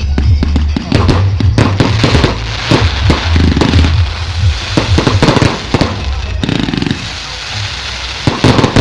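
Fireworks going off in quick succession, many sharp bangs and crackles packed close together. They thin out after about six seconds, and a fresh cluster of bangs comes near the end.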